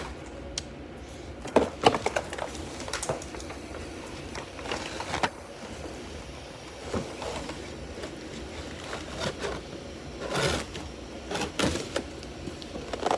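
Handling noises of a firework shell tube being worked at to pull a 4-inch shell out: irregular knocks, scrapes and rustles, with sharp knocks about a second and a half in and again near the end.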